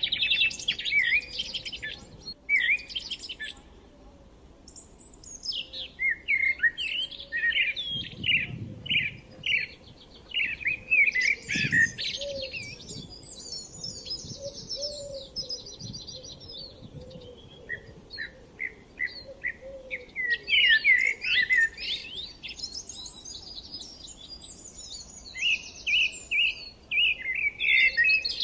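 Several forest songbirds chirping and singing over one another in quick, pitch-sliding notes and rapid trills, busiest near the start and the end.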